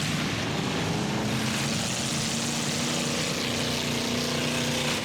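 Demolition derby truck engines running hard at steady high revs, a continuous drone over a wash of noise.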